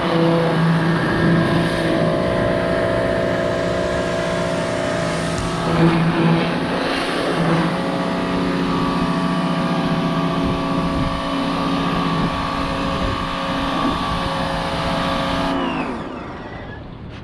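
Electric pressure washer running, its motor and pump making a steady hum under the hiss of the spray. Near the end the motor winds down and stops, as it does when the trigger is released.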